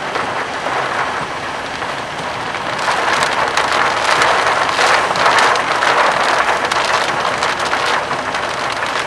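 Heavy rain beating on a vehicle, with a steady rushing noise that grows heavier from about three seconds in and eases again about seven seconds in.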